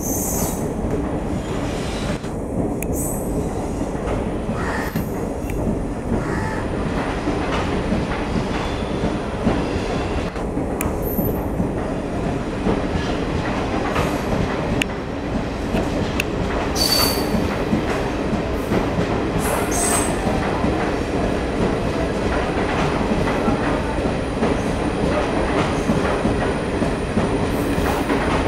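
Passenger coaches of an electric-hauled express train rolling past on a curve, making a steady rumble on the rails. There are brief high wheel squeals about 17 and 20 seconds in.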